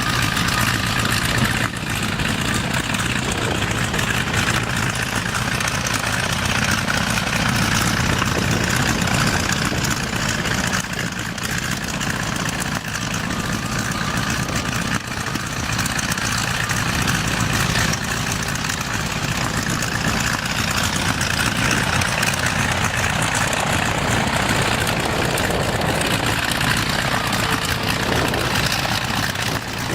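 A propeller aircraft's piston engine running steadily, heard as a constant, even drone.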